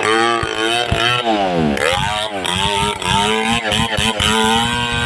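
Two-stroke chainsaw engine running at high revs while cutting, its pitch dipping and recovering again and again as the chain loads in the wood. About a second and a half in, the engine drops deeply and climbs back up.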